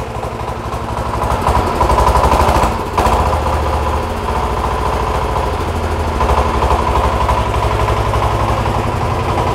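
A Sifang 20 hp single-cylinder diesel engine running just after being started, with a fast, even firing beat. It grows louder around two seconds in, dips briefly near three seconds, then settles into a steady run.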